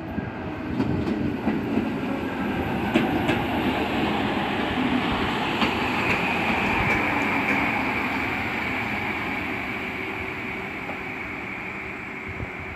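Electric multiple-unit passenger train passing close by: a heavy rumble of wheels on rail with a few sharp clicks over rail joints, and a steady high whine joining in about halfway through. The sound eases off near the end as the train moves away.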